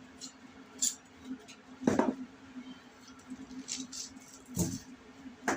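Hands seasoning a chicken: a few short taps and rustles of handling, the loudest about two seconds in, over a steady low hum.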